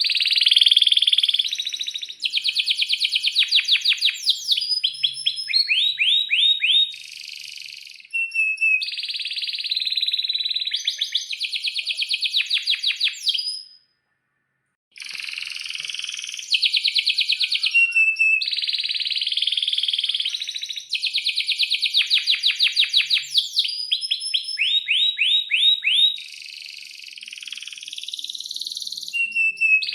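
Domestic canary singing a long song of rapid chirps, fast rolling trills and quick falling notes. The song breaks off for about a second midway, then starts again.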